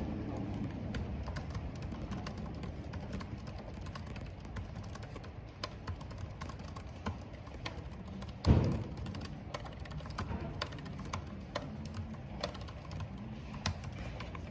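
Computer keyboard typing in scattered, irregular keystrokes over a steady background of rain and wind. One loud, low thump comes about eight and a half seconds in.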